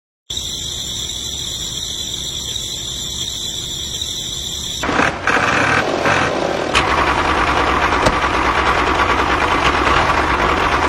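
An engine or motor running steadily with a high whine over a low, even pulse. About five seconds in the whine stops and a louder, rougher running noise takes over.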